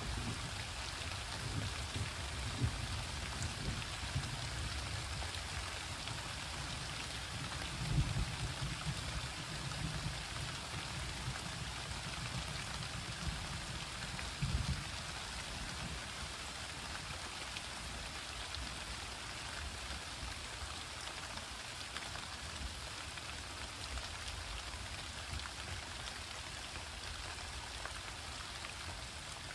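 Steady rain falling during a thunderstorm, with a few brief low rumbles in the first fifteen seconds.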